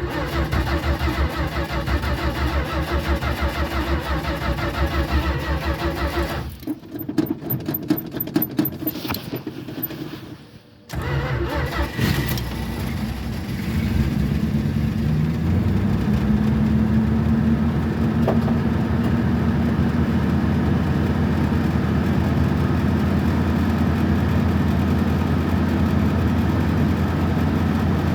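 1973 Plymouth Duster engine on a cold start: the starter cranks steadily for about six seconds, then cranks unevenly for a few more. The engine catches about eleven seconds in and settles into a steady idle.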